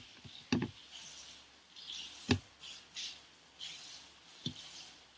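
Handwriting noises: short scratchy strokes with a few sharp taps in between.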